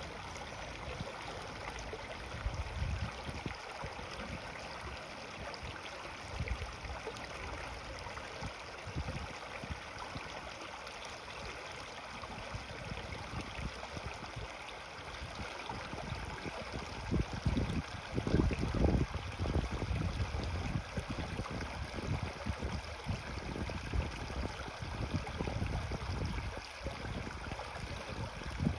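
Creek water flowing over its bed with a steady rush and gurgle. Irregular low thuds come and go over it, heaviest about two-thirds of the way through.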